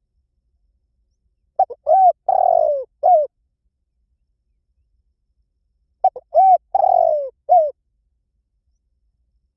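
Spotted dove cooing: two phrases about four seconds apart, each a couple of quick short notes, a longer coo that falls in pitch, and a short final note.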